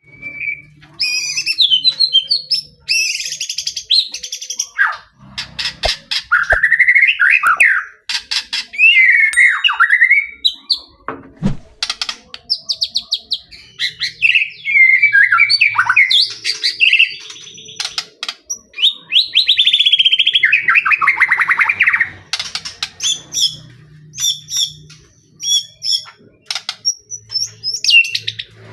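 White-rumped shama (murai batu) singing in full voice: a long run of varied phrases of rich whistles, rising and falling glides, rapid buzzy trills and sharp clicking notes, broken by short pauses.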